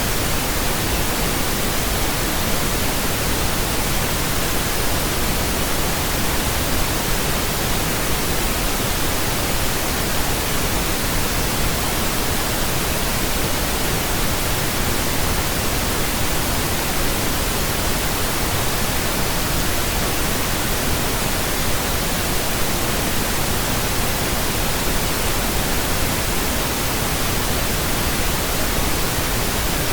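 Steady pink noise, an even hiss spread across all pitches with no changes or events.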